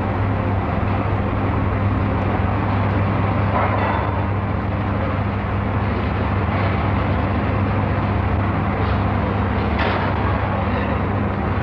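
Steady roar of iron-foundry machinery with a constant low hum, as molten iron pours from the cupola furnace into a ladle.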